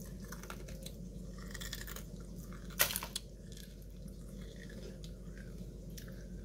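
A person chewing dry Special K Pumpkin Spice cereal, crunching irregularly, with the loudest crunch close to three seconds in.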